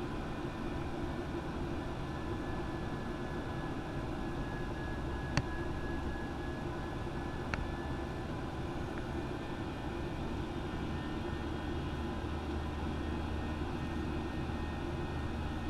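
Steady engine and airflow noise of a Boeing 737-900 airliner in flight, with a strong low hum. Two sharp clicks cut through it, about five and seven and a half seconds in.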